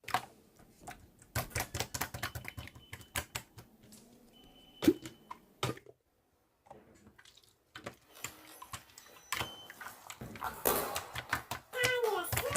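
Typing on a computer keyboard: irregular runs of key clicks, with a pause of about two seconds midway.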